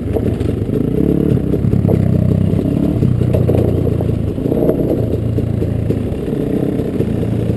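Dirt bike engine running under way, the throttle opening about a second in and easing off briefly later, with the pitch rising and falling.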